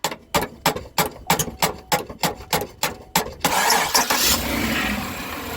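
Sharp metal taps on a failing starter motor, about three a second, while the key is held to crank. About three and a half seconds in, the jarred starter engages, cranks the engine, and the engine catches and settles into running.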